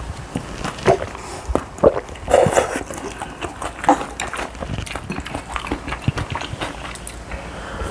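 Close-up eating sounds: chewing and wet mouth smacking, with short sharp clicks scattered irregularly.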